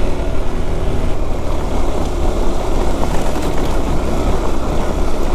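KTM 390 Adventure's single-cylinder engine running steadily under way, mixed with wind and road noise.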